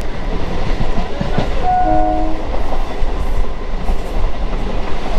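Electric suburban local train (EMU) running, with steady wheel-and-carriage noise and a rattle, and a short held horn blast about two seconds in.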